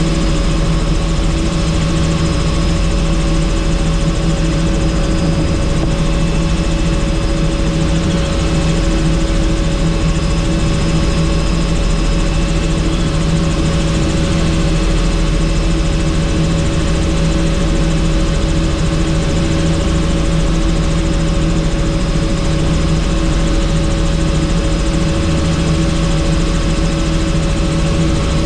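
Helicopter in flight, heard from on board: steady rotor and engine noise with a constant hum and a strong low rumble.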